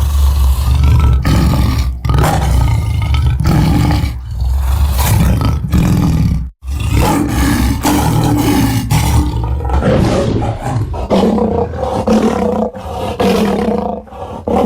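Designed tyrannosaur roars and growls made from layered lion roars and wolf calls: a run of loud, deep, rough calls with short breaks between them and one sudden cut about six and a half seconds in. The later calls carry a more held pitch.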